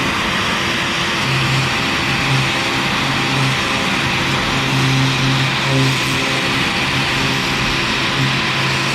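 CNC router spindle running steadily with a 1/4-inch O-flute bit milling PVC, a continuous machine noise with a low hum that swells and fades through the cut.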